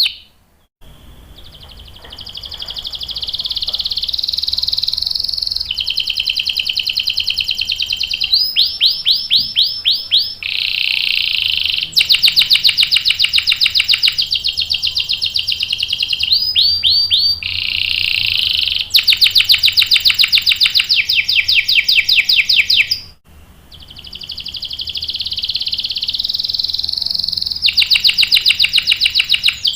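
Canary singing long rolling trills: runs of one rapidly repeated note, each held for a few seconds before switching to the next, with a brief pause about 23 seconds in.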